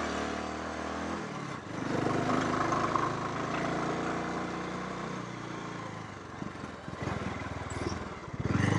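Motorcycle engine running on the road, its pitch shifting as it changes speed, then dropping to a slow, even pulsing idle in the last couple of seconds.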